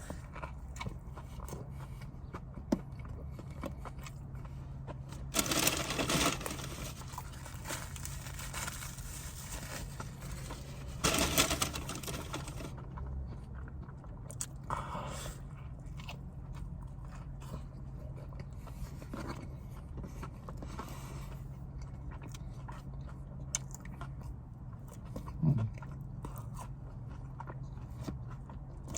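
Close-miked chewing and biting of fast food, with small crackles throughout and two louder crunching bursts about six and eleven seconds in.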